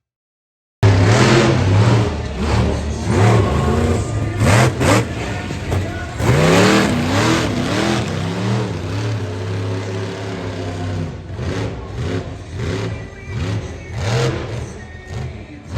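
Monster truck engine revving hard, its pitch rising and falling again and again with short sharp bursts of throttle. The sound starts abruptly after a moment of silence.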